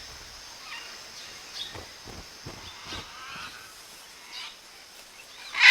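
Scarlet macaws calling, a scatter of faint squawks with one loud squawk near the end.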